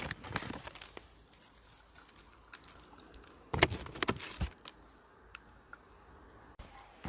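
Scattered small clicks and rustling handling noises, with a sharper knock about three and a half seconds in and a few more just after.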